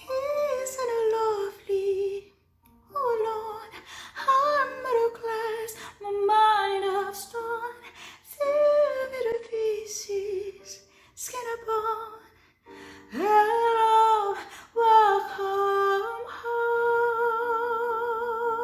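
A woman singing solo in gliding, ornamented phrases with short breaks between them, ending on a long held note with vibrato.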